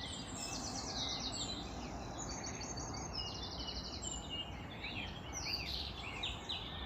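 Several songbirds singing in the early-morning chorus, with fast trills and runs of quick rising-and-falling notes overlapping one another, over a steady low background rumble.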